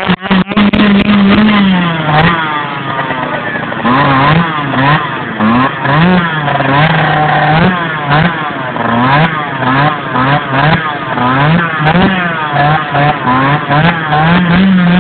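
Dirt bike engine revved hard and repeatedly, its pitch rising and falling about once a second, as the bike sits bogged in mud with its rear wheel spinning and throwing mud.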